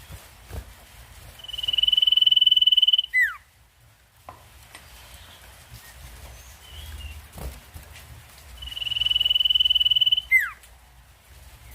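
Sirtu (iora) song: a long, loud, rapid trill held at one high pitch for nearly two seconds, ending in a quick falling note. The phrase is sung twice, about seven seconds apart, over a faint low hum.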